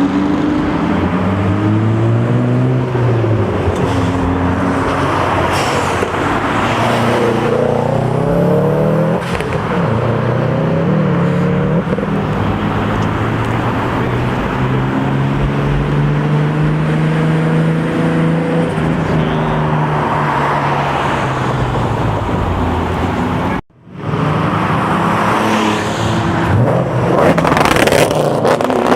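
Several performance cars driving past one after another, their engines rising and falling in pitch as they accelerate and pass. The sound breaks off for a moment about three-quarters of the way through.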